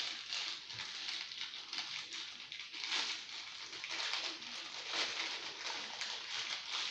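Plastic packaging crinkling and rustling as a toy doll is unwrapped by hand, a run of small irregular crackles.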